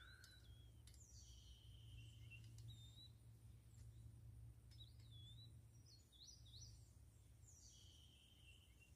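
Near silence with faint bird chirps: several short whistled calls scattered through, over a low steady hum.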